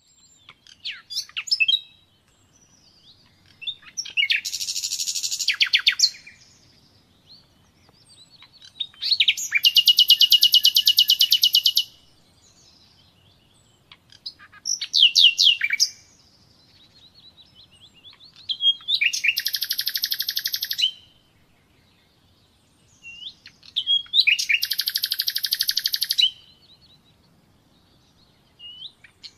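Common nightingale singing: a series of phrases two to three seconds long, mostly fast repeated-note trills, with short pauses between them.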